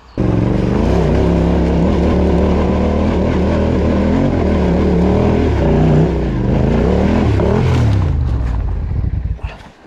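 Yamaha Ténéré 700's parallel-twin engine revving hard under load on a steep climb, its pitch rising and falling as the throttle is worked. It cuts in suddenly and dies away near the end.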